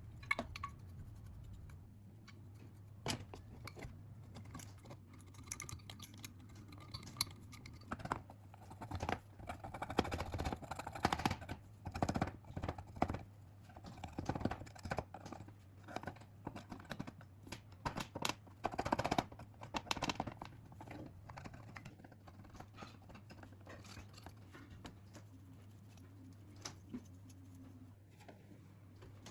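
Hand work on small metal parts: irregular scraping, clicks and taps, busiest in the middle, over a steady low hum.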